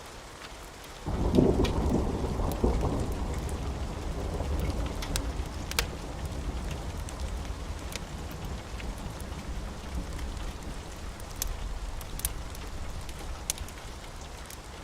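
Steady rain with a clap of thunder that breaks about a second in and rumbles away slowly over the following seconds. Sharp crackles from a wood fire pop now and then.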